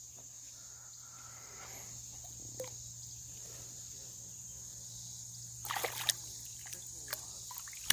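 Steady chirring of crickets, with a brief spell of water splashing about six seconds in.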